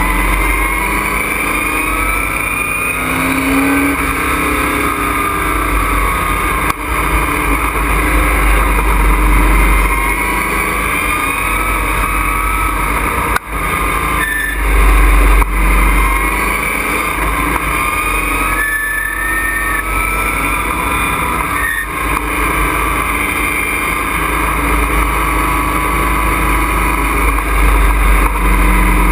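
Race truck's engine at speed, heard loud from inside the cockpit, its revs rising and falling through the corners and dropping briefly a few times, over constant road and wind noise.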